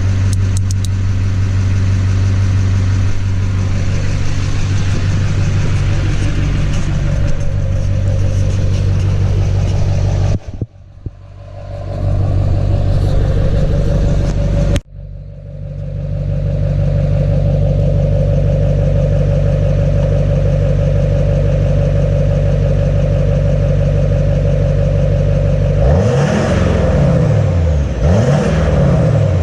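Duramax LMM 6.6-litre V8 turbo-diesel idling steadily through a 4-inch single exhaust with the DPF deleted. The sound drops away sharply twice around the middle and comes back, and near the end the engine is blipped twice, rising and falling each time.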